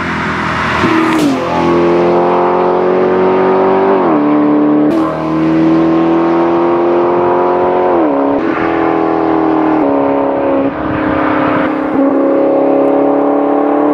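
Maserati GranCabrio's V8 engine and exhaust pulling hard under acceleration, the pitch climbing steadily through each gear and dropping sharply at each upshift, about four shifts in all.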